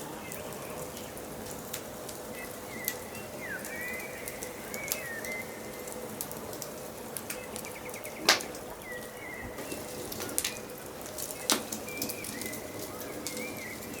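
Wood fire crackling, with scattered sharp pops, the loudest about eight seconds in. Birds chirp in short calls in the background.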